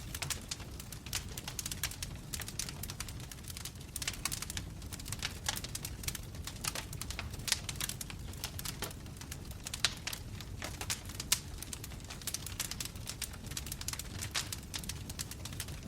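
Wood fire burning in a fireplace: logs crackling with dense, irregular snaps and pops over a low, steady rumble of the flames, with a few louder pops around ten and eleven seconds in.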